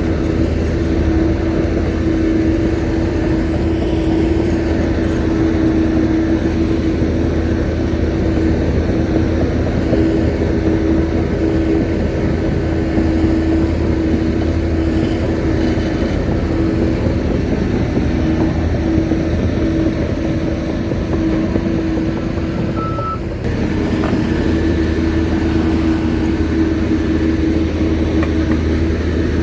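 Shantui bulldozer's diesel engine running steadily with a loud, even drone, dipping briefly about 23 seconds in.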